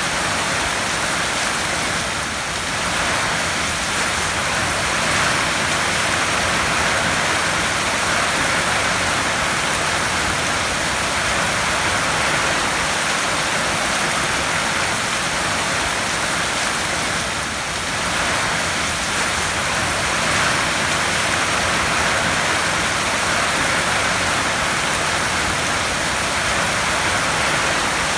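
Heavy rain drumming steadily on a tin roof, a dense even hiss, easing very slightly for a moment about two seconds in and again about seventeen seconds in.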